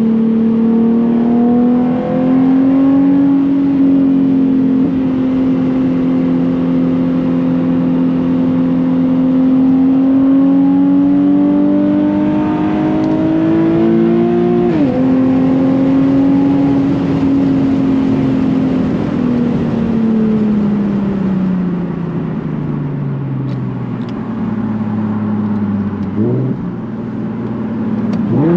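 Nissan 370Z's 3.7-litre V6 through a Tomei titanium catback exhaust under way. The revs climb slowly, drop sharply at a gear change about fifteen seconds in, then sink steadily as the car slows, with two quick throttle blips near the end.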